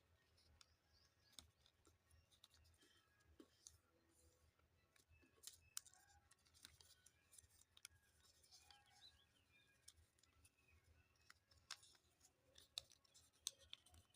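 Faint handling of paper being folded and creased, with scattered sharp clicks and crinkles at irregular intervals.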